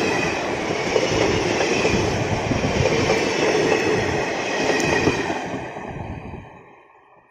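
Passenger train coaches passing close by, their wheels rumbling and clattering on the rails. The sound fades away from about five seconds in as the last coach moves off.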